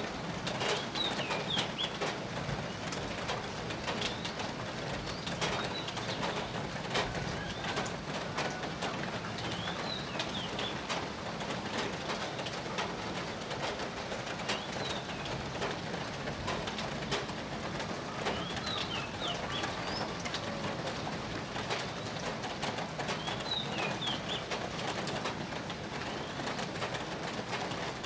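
Birds calling outdoors. One bird repeats a short phrase of high, falling notes every four or five seconds, over a scatter of small ticks like raindrops.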